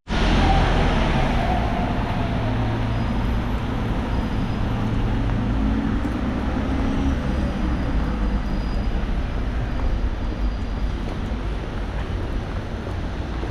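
Steady outdoor rumble and hiss, with a few faint drawn-out engine-like tones.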